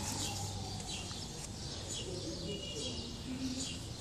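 Small birds chirping: short, high, falling chirps repeating about twice a second.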